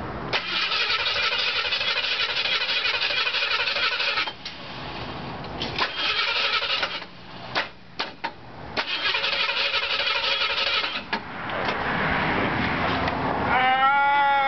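Starter cranking the Ford 5.0 fuel-injected V8 of a 1972 Mercury Comet on its first start after the swap, in three bursts with short pauses and clicks between them. Near the end it gives way to a louder, steadier running sound with a pitch that rises and then holds.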